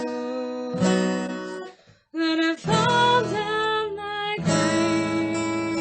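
Acoustic guitar playing sustained strummed chords, with no words sung. The music cuts out briefly about two seconds in, then comes back with new chords.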